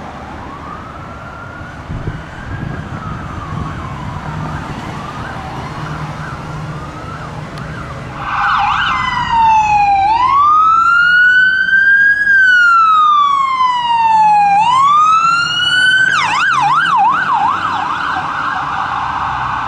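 Emergency vehicle's electronic siren passing. It is faint over traffic noise at first, then loud from about halfway in with a slow wail rising and falling. Near the end it switches to a fast yelp.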